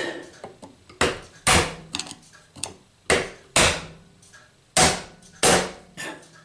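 Hammer tapping a newly made shear key into the flywheel keyway of an old petrol engine: about six sharp blows, mostly in pairs, with light taps between.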